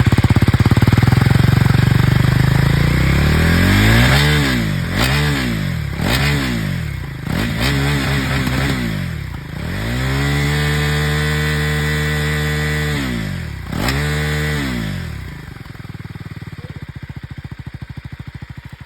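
KTM 390 Duke single-cylinder motorcycle engine idling, then revved in neutral: four or five short throttle blips that rise and fall, one longer rev held steady for about three seconds, and a last blip before it settles back to a quieter idle. The sound cuts off suddenly near the end.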